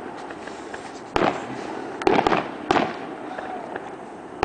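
Fireworks display: aerial shells bursting with sharp bangs, one about a second in, a quick cluster of several around two seconds, another shortly after and one at the end, over a steady background rumble.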